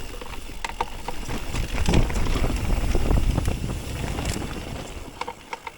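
Electric mountain bike descending a rough, rooty trail: tyres rumbling over dirt and roots, with scattered clicks and rattles from the bike and wind buffeting the microphone. The rumble is loudest from about two to three and a half seconds in.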